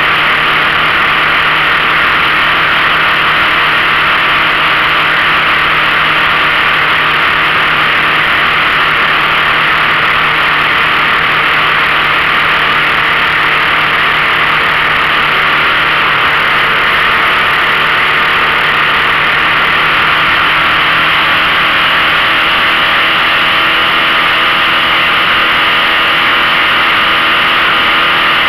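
15 hp outboard motor running steadily under way, pushing the boat with a steady engine hum and rushing noise that holds at one loud level.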